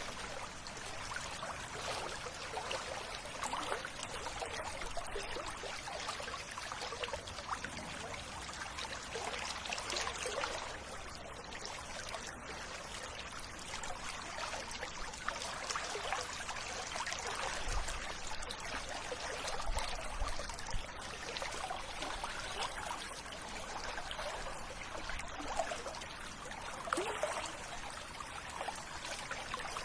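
River water trickling and babbling steadily, with small swells in the flow now and then.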